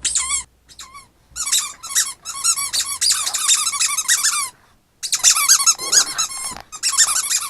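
Squeaky dog-toy ball squeaked over and over in fast runs of high squeals, with a short break about four and a half seconds in.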